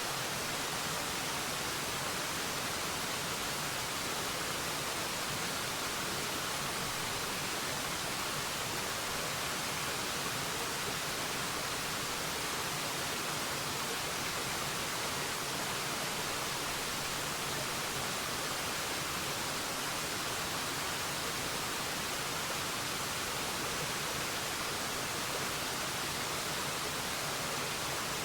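Waterfall: falling water rushing in a steady, even hiss that stays at the same level throughout.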